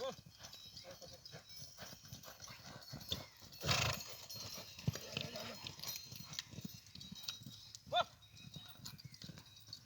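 Horse hooves stamping and shuffling on dirt as horses shove against each other, with a louder scuffling surge about four seconds in. A couple of short calls cut in, at the start and about eight seconds in.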